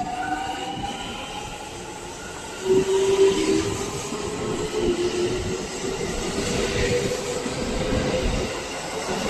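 Electric multiple-unit train of the JR Tokaido Line pulling out of the station: the traction motors whine in tones that rise slowly in pitch as it speeds up, louder from about three seconds in, with the wheels clattering over the rail joints.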